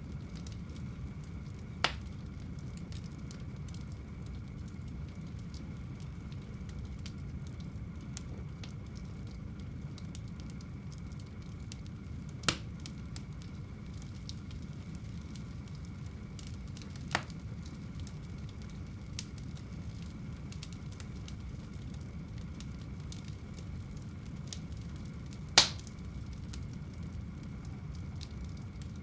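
Wood fire burning in a home fireplace: a steady low rumble of flame with light crackling and four sharp pops from the burning logs, the loudest near the end.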